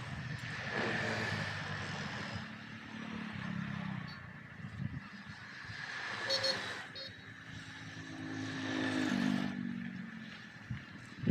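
Motor vehicle engines running, swelling twice and falling away, the second time with a downward slide in pitch, over a steady high-pitched whine.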